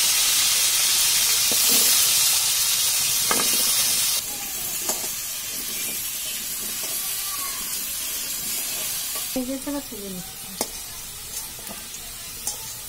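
Potato pieces frying in hot mustard oil in an aluminium kadai, a loud sizzle that drops sharply about four seconds in and goes on more quietly. A metal spatula stirring the potatoes gives a few sharp clicks against the pan.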